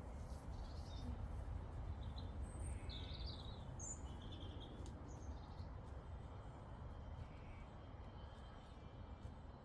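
Meadow ambience: a steady low background rumble with small birds chirping in short, scattered calls, busiest in the first half and sparser later.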